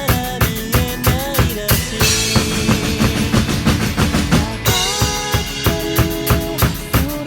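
Drum kit played along to the song's backing track: a steady beat of bass drum and snare over guitar and melody lines, with a stretch of cymbal wash from about two seconds in to about four and a half seconds in before the plain beat returns.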